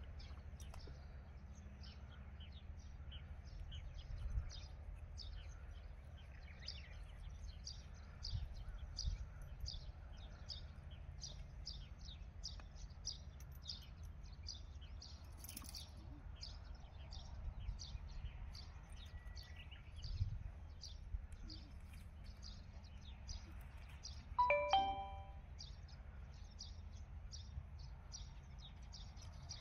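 Paddock ambience: a small bird chirps over and over, about two short high chirps a second, over a steady low rumble and a few soft thumps. About three quarters of the way through, one short ringing tone sounds with several pitches at once.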